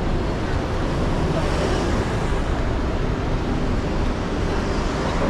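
Steady, even rumble of a moving vehicle, with no distinct events standing out.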